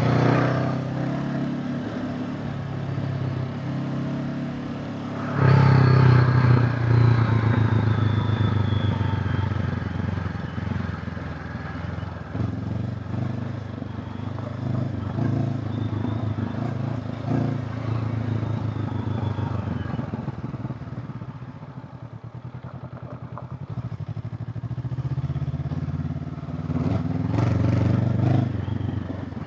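Honda CB500X parallel-twin motorcycle engine under way. About five seconds in it rises sharply as the throttle opens, then eases off gradually, is at its quietest a little past two-thirds of the way through, and picks up again near the end.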